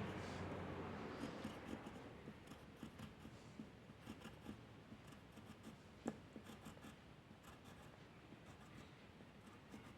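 Faint scratching of a drawing tool on paper: many short, irregular strokes, with one sharper tap about six seconds in.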